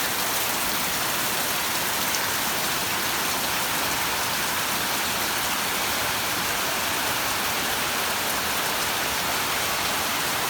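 Heavy rain pouring down steadily, a hard thunderstorm-type downpour.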